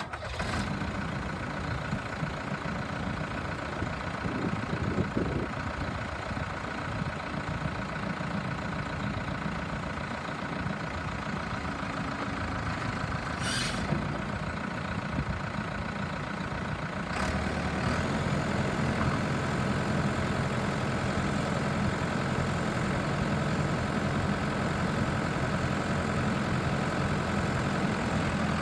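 New Holland LB110 backhoe loader's diesel engine running steadily, with a brief hiss about halfway through. About two-thirds of the way in, the engine speed steps up and it runs a little louder.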